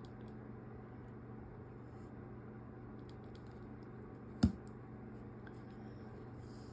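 Quiet handling of craft materials on a tabletop: scattered faint small clicks and taps, and one sharp knock about four and a half seconds in, over a steady low hum.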